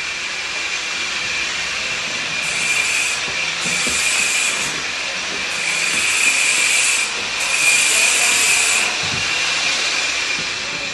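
Loud steady hissing with a constant high whistle-like tone running through it, and a sharper, higher hiss that cuts in and out four times.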